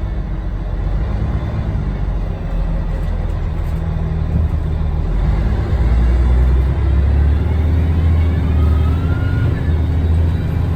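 Scania L113TRB bus's 11-litre six-cylinder Scania DSC1171 diesel running, a steady low drone that grows stronger about halfway through.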